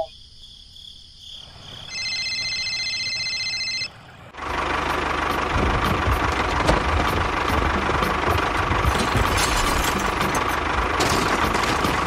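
Tractor engine running steadily, starting about four seconds in. It is preceded by a steady whine lasting about two seconds.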